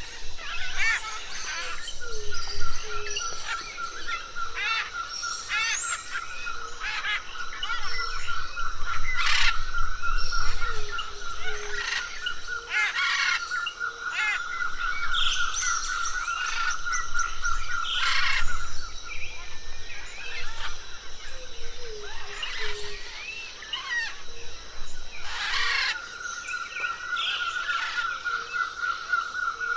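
Many birds calling and singing together in a tropical forest chorus, with sharp whistled notes and glides. Under them one bird gives a long, rapid trill at a steady pitch that runs for many seconds, stops about two-thirds of the way through, and starts again near the end.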